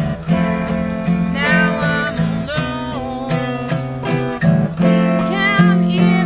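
Music: a strummed acoustic guitar in a blues-country style, with a higher melody line that bends in pitch twice over it.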